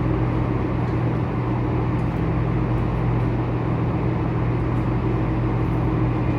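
Tour boat's engine running at a steady cruising drone, a constant low hum with water and air rushing past the hull.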